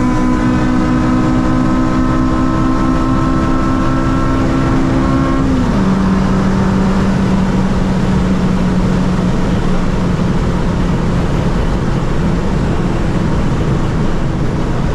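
Car engine held at high, steady revs over loud road and wind noise during a hard run. About five and a half seconds in, its note drops quickly to a lower pitch and holds steady there.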